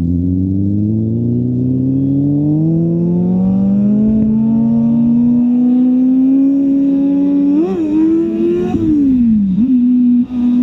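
Motorcycle engine revving. Its pitch climbs steadily for about six seconds, holds, wavers briefly near eight seconds, then falls and settles to a steady run.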